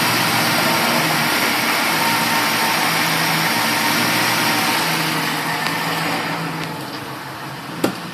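An engine running steadily, dying away over the last few seconds, with a sharp click near the end.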